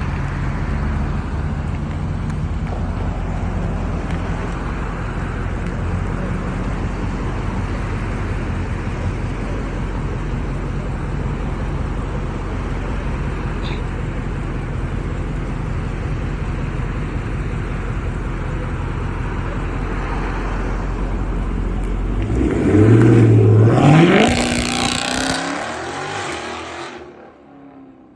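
Dodge Charger Daytona 392's 6.4-litre HEMI V8 through a Corsa exhaust, running steadily with a deep drone. About 22 seconds in it revs hard, climbing in pitch and getting much louder, then dies away near the end.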